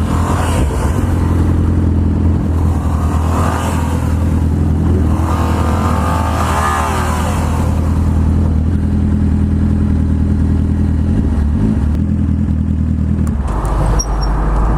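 Sport motorcycle engine running at a steady speed from the rider's point of view, with its note changing about a second before the end.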